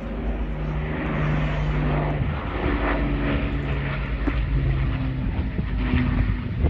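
Propeller aircraft engine droning as it flies past, its hum dropping in pitch a little over two seconds in, over a low rumble of wind on the microphone.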